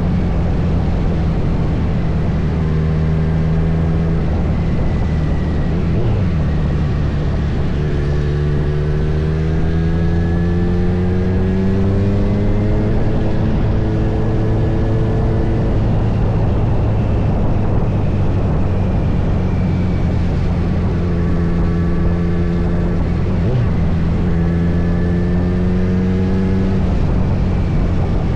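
Kawasaki Z900's inline-four engine running under way, its pitch climbing for a few seconds about a third of the way in as it accelerates, then holding steady. Heavy wind rush on the microphone runs underneath.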